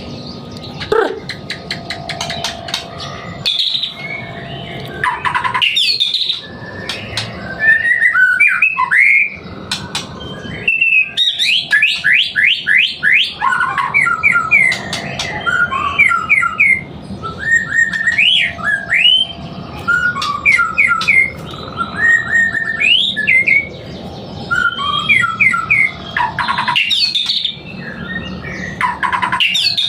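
White-rumped shama singing a long, varied song of loud whistled phrases, pitch slides and quick trills, with a fast series of rising notes about eleven seconds in.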